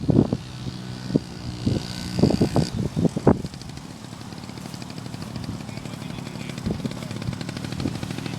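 Mini dirt bike engine running. Several loud knocks or bumps come in the first three seconds or so, then the engine runs steadily.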